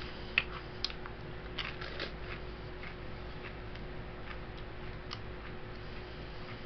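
A few faint, irregular sharp clicks over a steady electrical hum.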